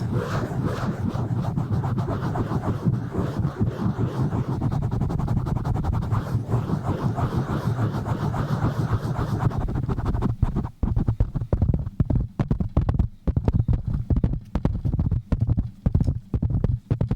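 Fast, rough hand contact on a microphone: a dense, continuous scratching and rubbing, then about ten seconds in it turns choppy, with rapid separate strokes and short gaps between them.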